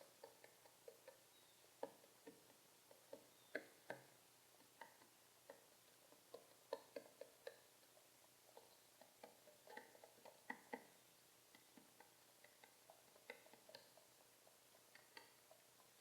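Faint, irregular ticks and taps from a pet pigeon, sometimes single and sometimes in quick little clusters.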